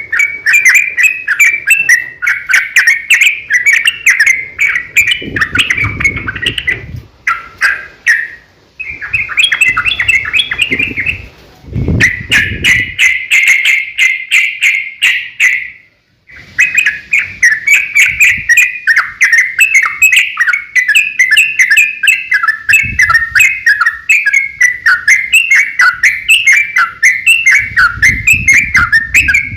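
Yellow-vented bulbul singing a long, fast, chattering stream of notes with hardly a pause. The song dips briefly about seven seconds in, stops for a moment about sixteen seconds in, then starts again.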